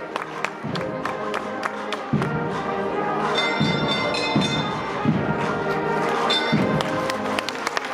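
Processional band music: low brass notes held and changing every second or so, with many sharp percussive hits and a brief high ringing tone a little after three seconds in.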